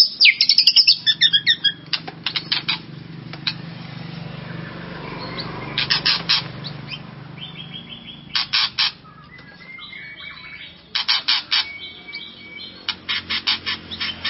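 White-rumped shama (murai batu) singing in an agitated, excited state: a burst of quick whistled phrases at the start, then short runs of sharp clicking notes every two to three seconds.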